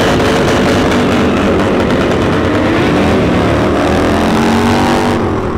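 A loud car engine running at high revs, its pitch climbing over the last couple of seconds. The sound drops off sharply near the end.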